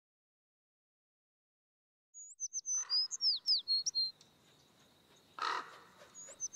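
Silence at first, then a songbird sings a short phrase of high whistles and quick falling slurs. The same phrase starts again near the end, with a brief burst of soft noise in between.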